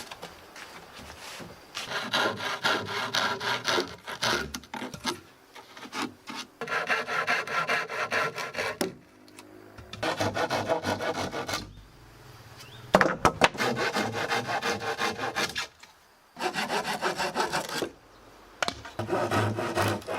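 Hand saw cutting through wood in repeated runs of quick back-and-forth strokes, about six runs with short pauses between them.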